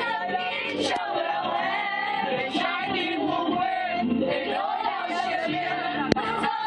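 Mixed choir of male and female voices singing together, with a single sharp click about six seconds in.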